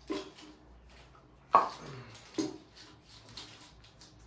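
A few sharp knocks and clanks of hand tools and parts against the engine as it is being taken apart, the loudest about a second and a half in, some with a short faint ring after.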